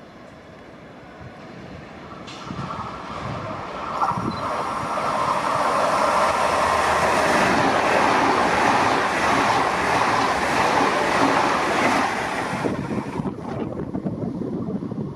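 A train passing through the station without stopping. Its rumble builds over the first few seconds, is loudest in the middle, and eases off near the end.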